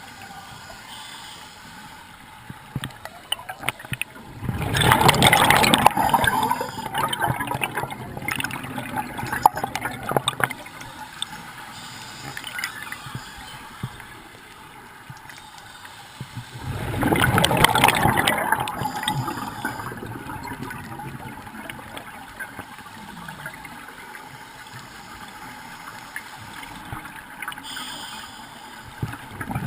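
Scuba diver breathing on a regulator underwater: loud bursts of exhaled bubbles about 4 s in, around 17 s in and again at the very end, with quieter gurgling and small clicks in between.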